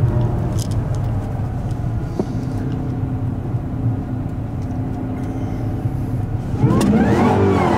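Supercharged LSA V8 with an upgraded supercharger pulley and tune, running at light throttle and heard from inside the cabin. About six and a half seconds in it gets louder and rises in pitch as the throttle is opened and the revs climb.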